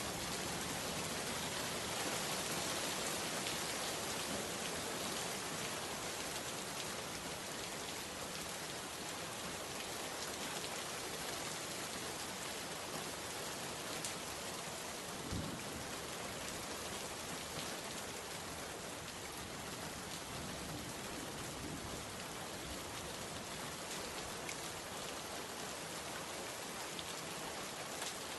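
Steady rain falling on a surface, an even hiss with scattered drop ticks, and one brief low thud about halfway through.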